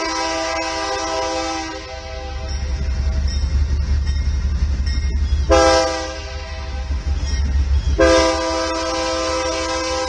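Diesel freight locomotive's multi-note air horn: a long blast that ends about two seconds in, a short blast a little past halfway, and another long blast from about eight seconds in. This long–short–long ending fits the horn signal for a grade crossing. Under the horn, the locomotive's diesel engine rumbles loudly as it passes.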